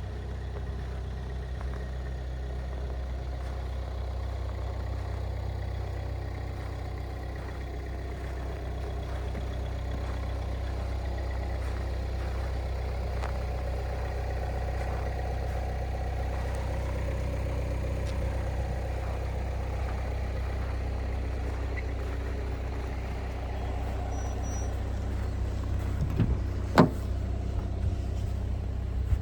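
Opel Grandland X's 1.5 turbo diesel car running, a steady low drone, with two sharp knocks near the end.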